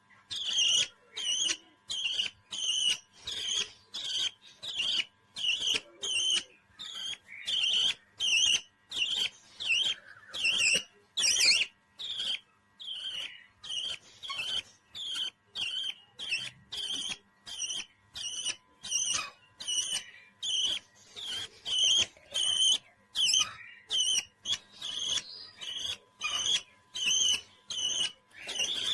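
A parrot calling in short, sharp chirps repeated evenly, about two a second, without a break.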